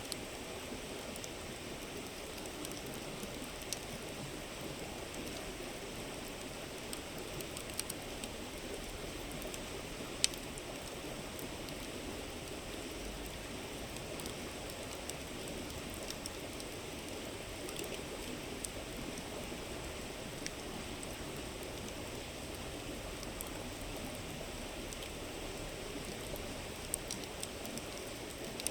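A river babbling steadily, with a wood campfire crackling over it in scattered sharp pops, one louder pop about ten seconds in and a few quick ones near the end.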